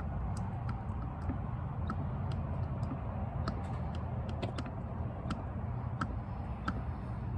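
Irregular light clicks and ticks, a few a second, over a steady low rumble, as motor oil is poured slowly from a heavy plastic jug into the engine's oil filler.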